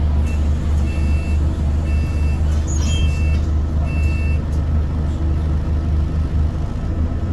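A bus engine running with a steady low drone heard from on board. Over it, a high electronic beep sounds about once a second, five times, then stops about four seconds in.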